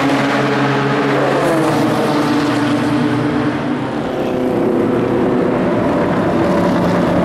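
Race car engines running loudly, the engine note stepping down in pitch about a second and a half in and again around four seconds in.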